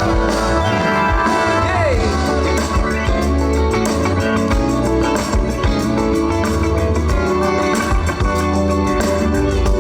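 Live band playing an instrumental stretch of a song, with guitar and organ over a steady bass.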